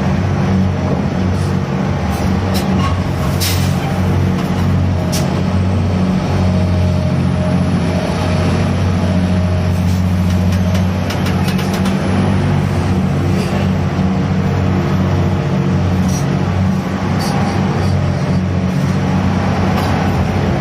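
Gut ship's grab-crane diesel engine running steadily under load while unloading cargo with the grab bucket, with a few sharp knocks.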